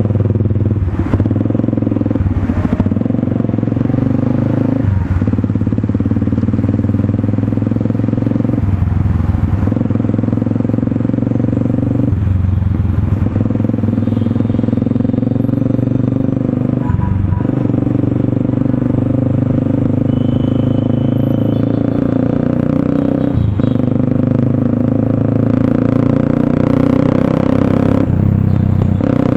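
Motorstar Cafe 400 single-cylinder engine running through an SC Project slip-on exhaust, steady and loud. Its note drops briefly about eight times.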